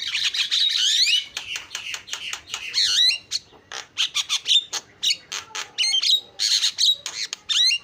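Javan myna (jalak kebo) singing fast and without pause: a dense run of harsh squawks and chattering notes mixed with whistled notes that slide up and down, stopping abruptly at the end.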